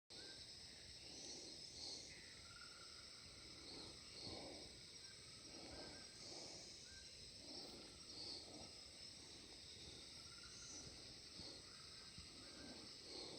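Faint outdoor ambience: a steady high chirring of insects such as crickets, with soft low pulses repeating a little more than once a second beneath it.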